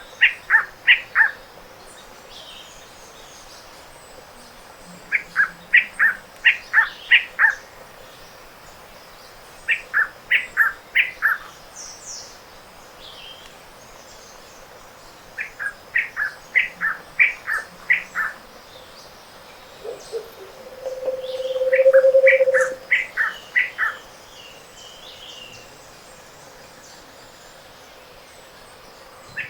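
Tropical montane forest dawn chorus. One songbird repeats a short phrase of about five to eight quick whistled notes, each sliding down in pitch, five times at intervals of about five seconds. About 21 seconds in, a low hollow note swells and fades over about two seconds, the loudest sound here, and faint high chirps come from other birds.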